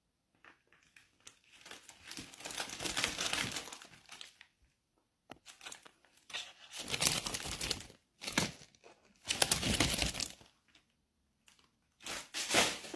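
Paper crinkling and rustling in about five separate bursts, some short and some a second or two long, with quiet gaps between them: a folded-paper dragon puppet being handled.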